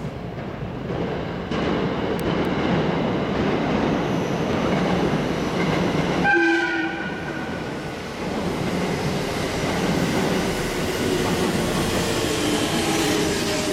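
JR Central 313 series electric train arriving at a station: the rumble of its wheels on the rails builds as it approaches. A short horn blast sounds about six seconds in. Near the end, the whine of its motors and the clatter of its wheels are heard as the cars run past the platform, slowing to stop.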